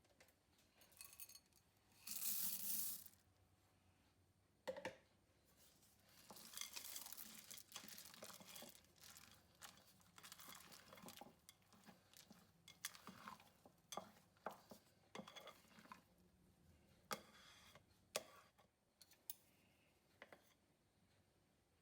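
Quiet kitchen handling sounds: a brief rustle about two seconds in, then scraping and scattered light clinks and taps of utensils against dishes.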